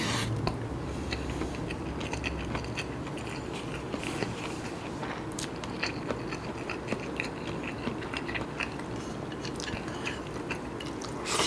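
A person chewing a mouthful of nasi kandar, rice with curry, close to the microphone: soft wet smacks and small mouth clicks, several a second. A louder airy sound, like a breath, comes near the end.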